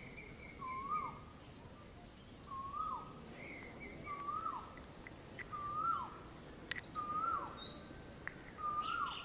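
Birds calling: one bird repeats a short note that rises and then drops, about every one and a half seconds, while other birds add high, thin chirps.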